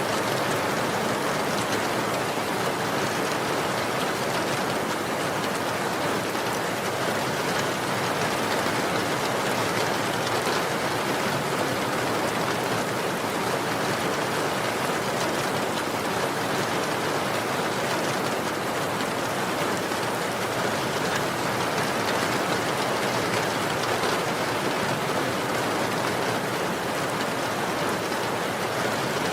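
Steady rain falling, a constant even hiss of many drops without a break.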